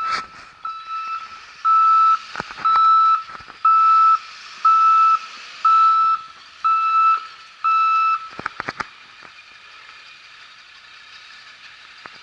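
Snow plow truck's reversing alarm beeping, one steady high tone about once a second, about nine times, then stopping. A few sharp knocks come just after, with the truck running underneath.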